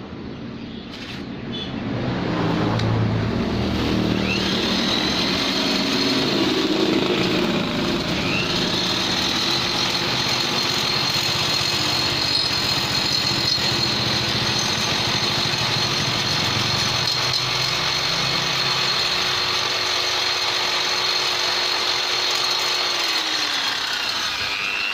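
Electric die grinder with a carbide tuning burr, spinning up with a rising high whine and grinding metal steadily, then winding down near the end: porting work, shaping the passages in a Vespa engine part.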